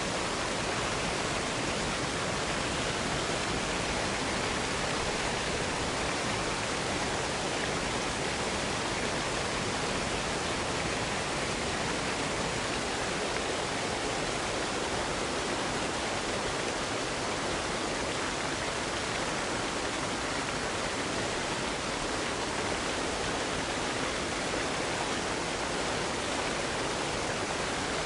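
Waterfall rushing steadily, an even wash of falling-water noise with no breaks or changes.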